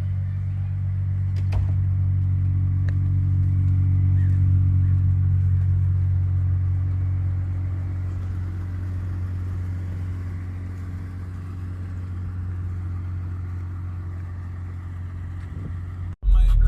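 2022 Lexus IS350 F Sport's 3.5-litre V6 idling steadily through a custom Greddy exhaust, a deep even drone that swells slightly and eases off. At the very end it cuts abruptly to a much louder rev climbing in pitch.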